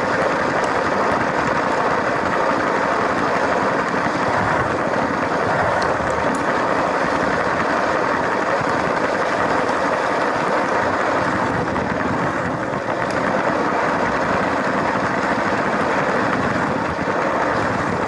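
LEGO train running steadily along plastic track, its electric motor and wheels giving a constant whirring rumble.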